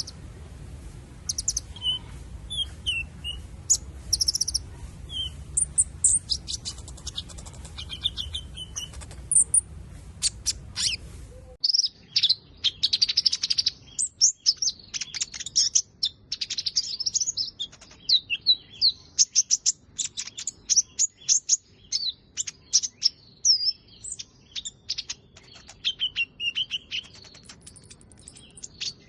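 Sunbird calling: a rapid series of loud, high, sharp chirps and short trills, becoming denser about a third of the way in. A low background rumble underneath stops suddenly at that point.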